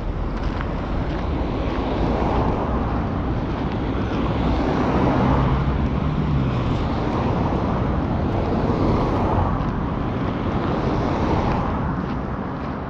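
Motor traffic passing on a road: tyre and engine noise that swells and fades as several vehicles go by, with a low engine hum loudest around the middle.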